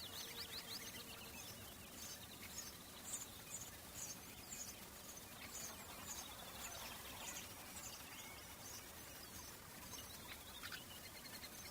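Summer outdoor ambience of birds: a bird repeats short high chirps at a steady pace, about two a second, over a faint background hiss. An insect's buzzing hum fades out in the first second.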